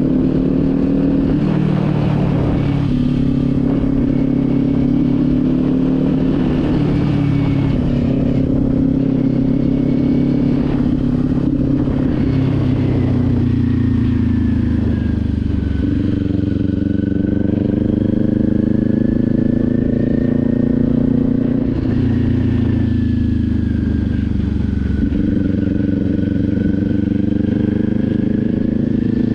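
Motorcycle engine running under way at a steady cruise, its pitch dropping and climbing a few times as the throttle and speed change, with wind and road noise.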